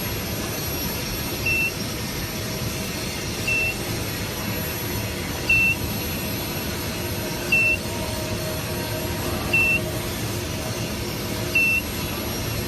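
A short, high electronic beep repeating about every two seconds, six times, over steady machinery noise.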